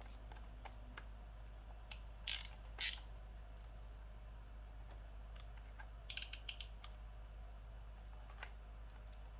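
Small clicks and scrapes of hand tools and metal parts being handled while wire terminals are screwed down, with two short scrapes a few seconds in and a quick run of clicks about six seconds in, over a steady low hum.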